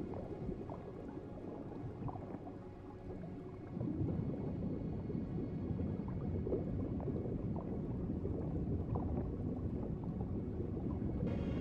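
Underwater-style ambience of steady bubbling and gurgling water. It gets louder about four seconds in.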